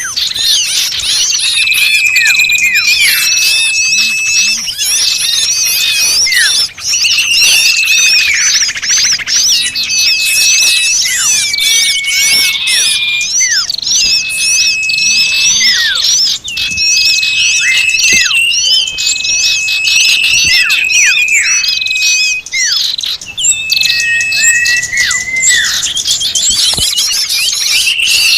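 Lure recording of many small birds calling at once in a noisy commotion: dense, rapid chirps over long whistled notes that recur every couple of seconds, each held about a second. This is a playback call used to draw small birds in.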